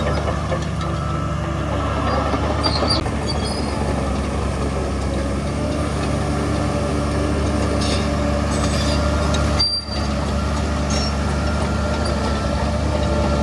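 Shantui DH17C3 bulldozer running steadily under work, its diesel drone overlaid by short, high metallic squeaks several times, typical of crawler tracks.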